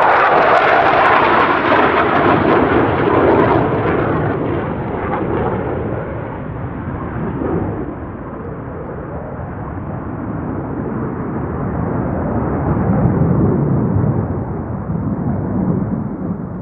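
Military jet aircraft flying past, very loud at first and dying away over several seconds. A deep rumble then swells again about twelve to fourteen seconds in and fades.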